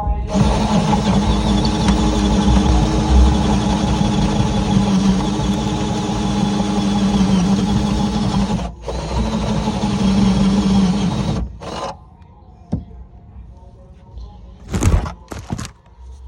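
Power drill running steadily under load for about eight seconds, stopping for a moment, then running again for about three seconds, with a short final burst. Near the end come two brief bursts of the drill.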